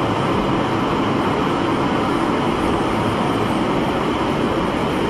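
Steady, even rumble of a moving vehicle, heard from inside.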